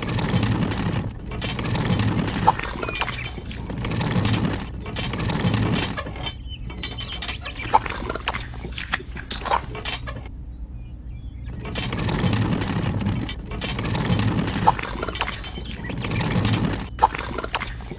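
Small geared toy motor running in repeated surges about a second long, with scattered clicks and clinks, and a short lull about two-thirds of the way through.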